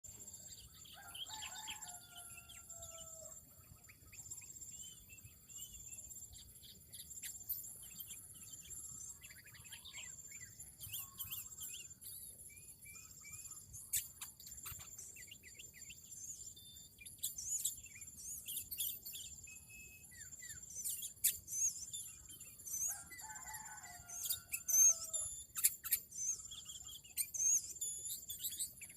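Small songbirds chirping and calling in quick, sharp high notes throughout, over a steady high tone. A rooster crows twice, once near the start and once about 23 seconds in.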